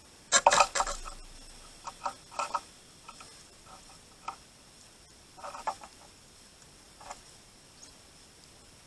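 Birds at a feeder making bursts of quick rattling clicks, loudest in a cluster about half a second in, then several shorter bursts spaced a few seconds apart.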